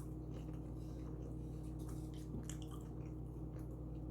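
Close-miked chewing of a soft tuna sub: wet, squishy mouth sounds with small scattered clicks, over a steady low electrical hum.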